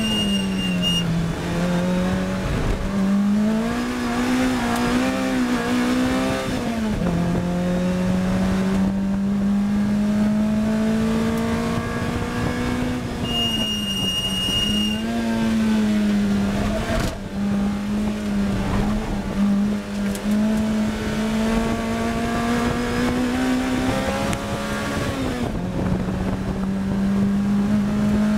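Onboard sound of a Lotus Elise R's Toyota 1.8-litre four-cylinder engine driven hard on track, its pitch climbing under acceleration and dropping sharply at gear changes and braking, repeated several times over steady road and wind noise. A steady high beep sounds briefly, twice.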